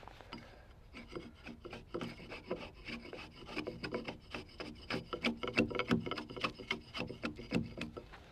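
A hand tool working a log timber in quick, repeated scraping strokes, several a second.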